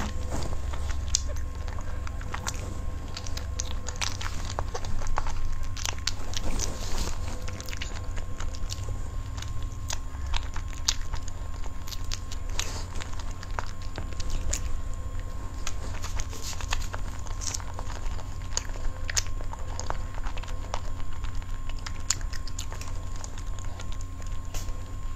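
Close-miked eating: soft cream cake cubes being bitten and chewed, with many small wet mouth clicks and smacks, over a steady low hum.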